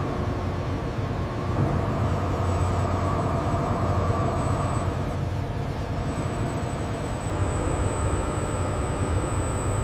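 Steady low machine rumble with a rushing hiss, and a thin high whine that comes in a few seconds in and grows stronger near the end.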